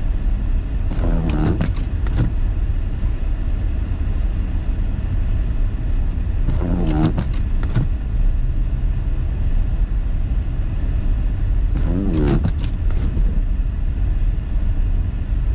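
Steady low rumble of a car driving, heard from inside the cabin. Three brief voice fragments break in, about a second in, near the middle and near the end.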